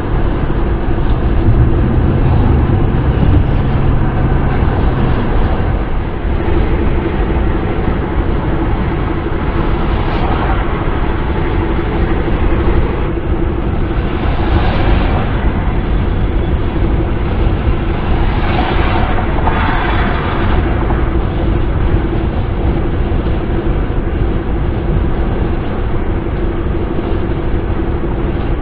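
Steady wind and road noise of a car driving, with a low steady drone underneath and a few brief swells of brighter hiss.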